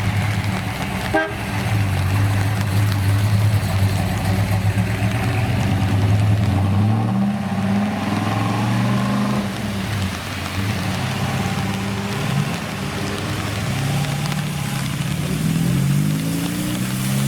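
Classic Japanese car's engine running, then revved up twice in rising sweeps of pitch, first around the middle and again near the end, as the car accelerates.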